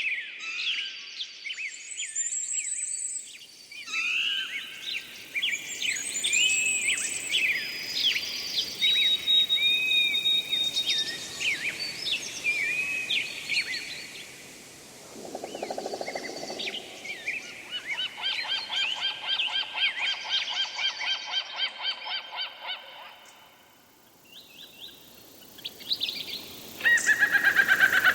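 Several wild birds singing and calling together: chirps, short whistles and trills, with a fast run of repeated harsh calls in the middle and a short lull near the end.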